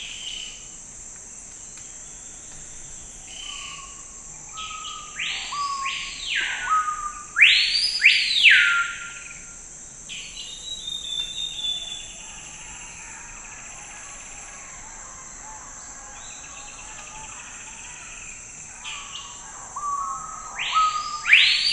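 Forest ambience: a songbird singing phrases of loud whistled notes that rise and fall, about five to nine seconds in and again near the end, with softer chirps in between, over a steady high insect drone.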